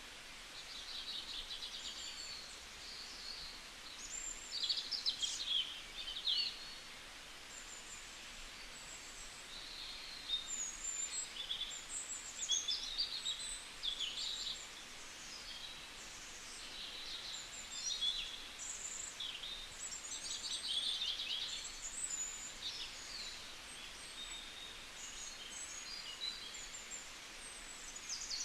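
Several small birds calling, a busy run of short, high chirps and trills that overlap one another and come in clusters, over a steady background hiss.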